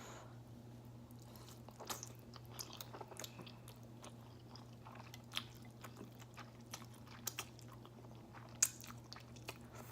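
Close-miked chewing of spicy ramen noodles: soft, irregular wet mouth clicks and smacks, some a little louder, about halfway and near the end, over a faint steady low hum.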